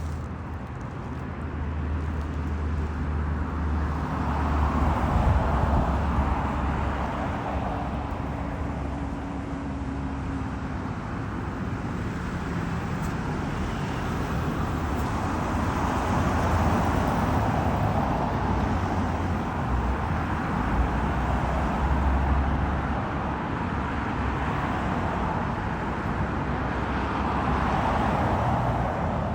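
Road traffic noise, a continuous rush that swells and fades several times as vehicles pass, over a low rumble.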